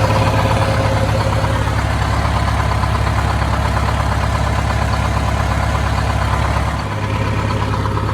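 The supercharged diesel engine of a 1971 Insley excavator idling steadily after being restarted, running well. The sound dips briefly about seven seconds in, then carries on.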